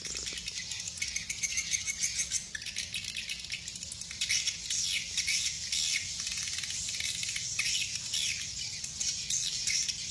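Many swiftlets twittering and clicking all at once in a dense, continuous chatter of rapid high chirps.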